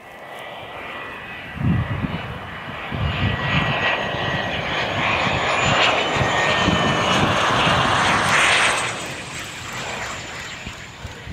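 Cessna 510 Citation Mustang's twin turbofan engines running: a broad rushing roar with a high steady whine on top, growing louder to a peak in the middle and easing off near the end as the jet passes. Low irregular thumps sound underneath.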